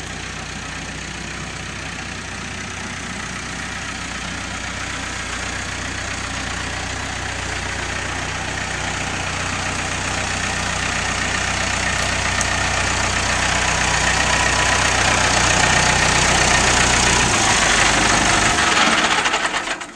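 Tractor engine running steadily, growing louder as it comes closer, then cutting off sharply near the end.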